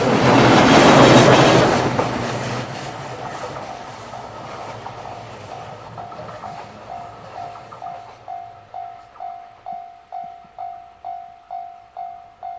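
A train passes close by, loudest in the first two seconds and fading away over the next few. A level-crossing warning bell rings steadily about twice a second and is heard on its own near the end.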